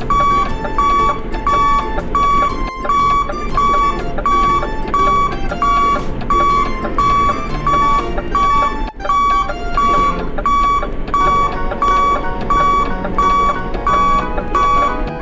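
An electronic beep repeating evenly about twice a second over a simple electronic tune.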